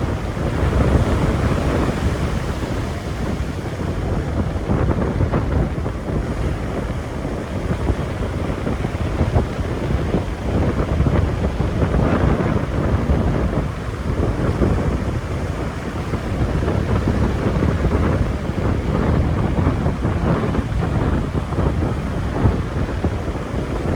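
Strong wind buffeting the microphone in gusts, over the steady wash of ocean surf.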